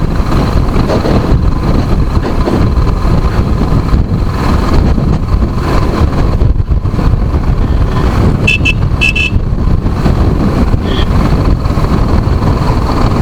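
Steady loud wind buffeting and engine and road noise from a vehicle on the move, with two short horn beeps about two-thirds of the way through.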